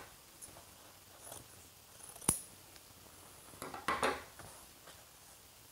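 Faint handling noises while material and the machine are being set up: a single sharp click a little past two seconds in, and a short rustle around four seconds in. The sewing machine is not running.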